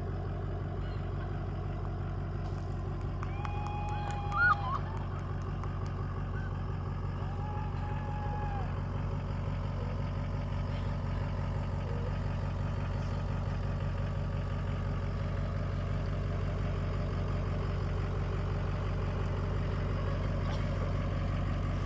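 Diesel truck engine idling steadily, with two short steady horn-like tones about four and eight seconds in.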